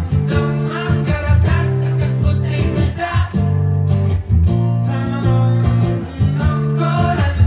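Live acoustic band music: acoustic guitar playing over a steady low bass line, with the chord changing about every second.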